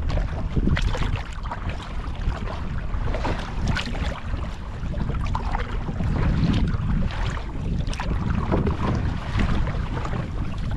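Kayak paddle strokes, with repeated splashes of the blades in the water, over heavy wind rumble on the microphone.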